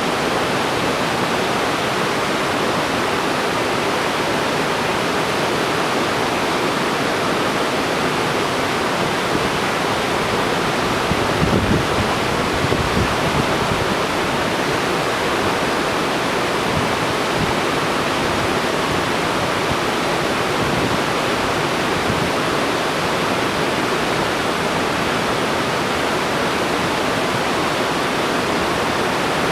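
Waterfall: a steady, full rush of falling water, with a brief low buffeting about midway, likely wind on the microphone.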